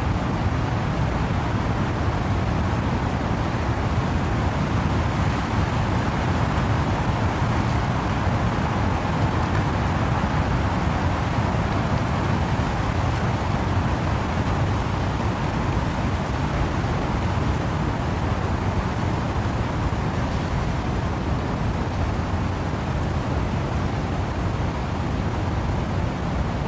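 Steady windy rain with wind through trees: an even rushing noise with a deep low rumble that swells a little near the middle.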